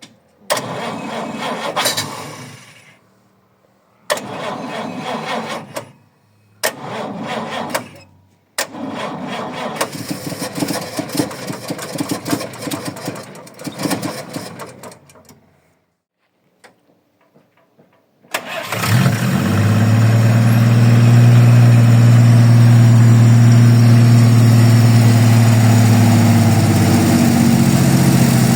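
1941 Chevrolet AK's straight-six engine being cranked by the starter in four separate attempts with short pauses between, then catching about eighteen seconds in and settling into a steady run.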